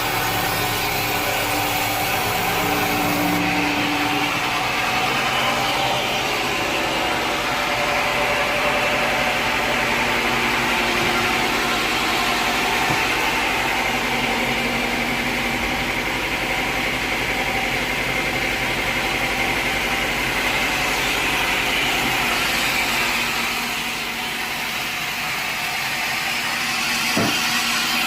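Sawmill machinery running steadily with a continuous mechanical drone, easing slightly about three-quarters of the way through. There is a single short knock near the end.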